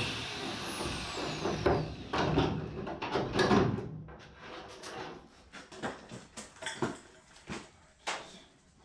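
Irregular knocks, clunks and taps of objects being handled and set down, heavier and more frequent in the first four seconds, then lighter and more spread out.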